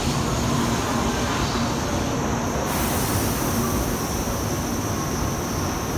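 N700S Shinkansen train running slowly into the platform and braking to a stop: a steady rumble and hiss of wheels and running gear. A thin, high, steady whine comes in about two and a half seconds in.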